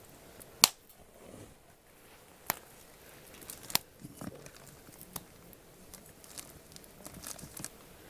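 Wood campfire burning with scattered sharp pops and crackles, the loudest about half a second in and again near the middle, with a run of smaller crackles near the end.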